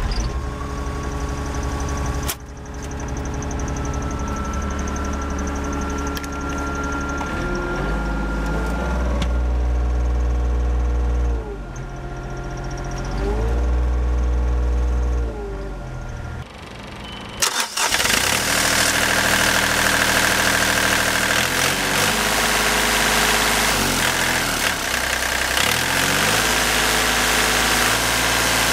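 Diesel engine of a 2011 Volvo ECR38 mini excavator running, its revs rising and falling several times. About halfway through it turns suddenly louder, with a strong hiss on top of the engine.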